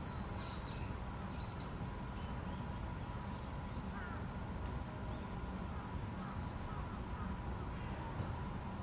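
Steady outdoor background rumble with a faint constant hum, and a few short high bird chirps in the first second or so, with a couple more faint ones later.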